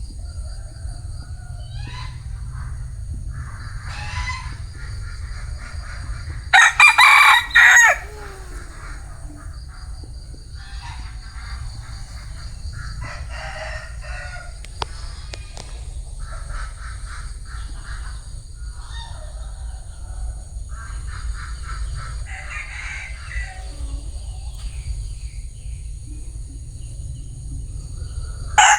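Bantam rooster crowing once, loudly, for about a second and a half, about six seconds in, and starting another crow at the very end. In between come softer, shorter clucking calls.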